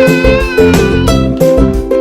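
Upbeat background music with plucked guitar chords over a steady beat.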